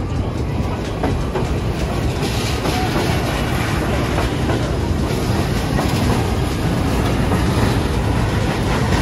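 Kurobe Gorge Railway narrow-gauge trolley train running, heard from aboard: a steady rumble and clatter of wheels on rails as it crosses a bridge. A hiss grows louder about two seconds in.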